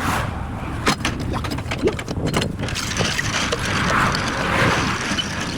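A vehicle engine running with a steady low rumble, with several sharp metallic clicks and clanks over it.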